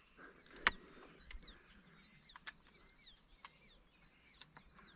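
Small birds chirping faintly and repeatedly, short high calls a few times a second, with one sharp click about a second in.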